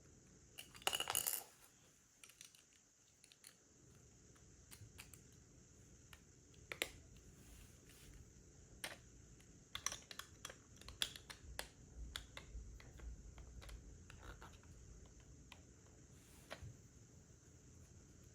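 Plastic Lego pieces clicking and clattering as they are handled and pressed together, with a louder clatter about a second in and scattered sharp clicks after.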